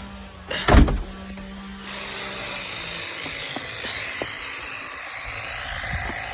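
Landscaping machinery running, with a steady hum that gives way to an even hiss about two seconds in. A loud thump comes a little under a second in.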